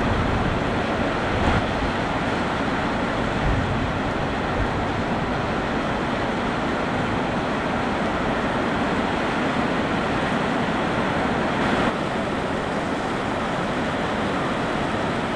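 Thunderstorm rain and wind: a steady, loud hiss of falling rain with a few low thumps of wind buffeting the microphone in the first few seconds, easing slightly about twelve seconds in.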